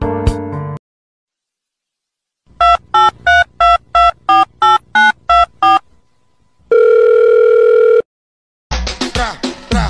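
Telephone keypad dialing tones: about eleven short beeps in quick succession, followed by one steady tone lasting just over a second. Music ends just before the beeps and new music starts near the end.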